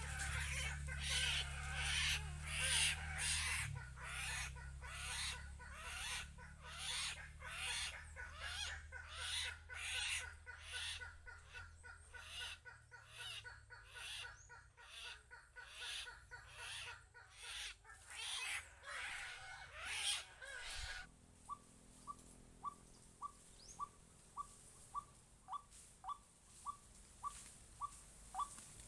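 Bird calls: a rapid, evenly pulsing chorus over a low hum, then, after a sudden change about two-thirds of the way in, a steady series of short, falling whistled pips about two a second.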